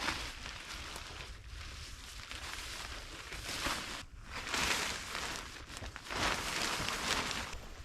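Rustling and handling noise in uneven surges, loudest about halfway through and again over the last two seconds.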